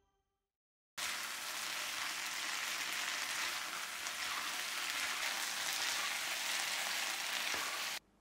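Chicken pieces with onion and green capsicum sizzling as they are stir-fried in a wok: a steady frying hiss that starts about a second in and cuts off suddenly near the end.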